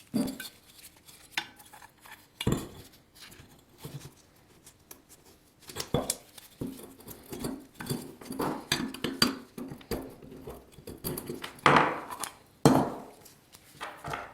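Irregular clinks, taps and scraping from hand work at a bench during a fiberglass repair, with a busy run of small taps in the middle and two louder strokes near the end.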